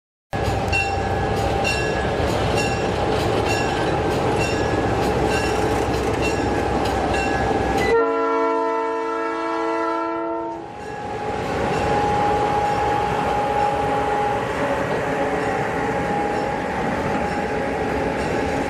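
Passenger train running, with a regular clacking about twice a second, then a train horn sounding a multi-note chord for nearly three seconds about eight seconds in, followed by steady train noise.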